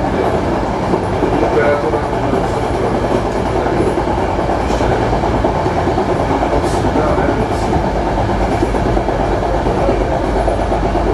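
Passenger train running at speed: a steady rumble of wheels on the rails, with a few faint clicks.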